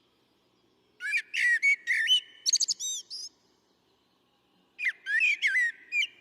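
A songbird singing two phrases of quick, varied whistled notes that slide up and down in pitch, each about two seconds long, with a pause of over a second between them.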